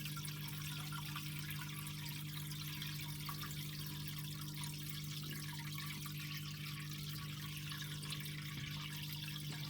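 Steady trickle of water in a terrapin's tank over a constant low hum.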